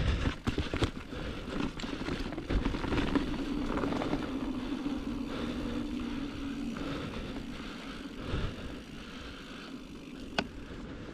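Giant Trance mountain bike rolling over a dirt singletrack: tyre noise and the rattle of the bike, with sharp knocks from rocks and roots near the start and once more near the end, and a steady hum for a few seconds in the middle.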